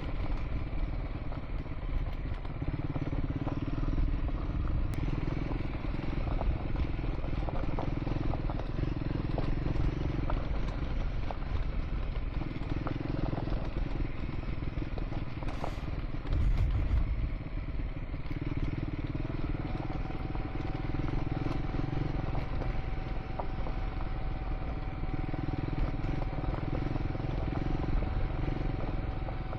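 Triumph Scrambler 400 X single-cylinder engine running on a gravel track ride, its note swelling and easing every few seconds, with scattered clicks and clatter from the loose surface. A steady high tone joins about two-thirds of the way through.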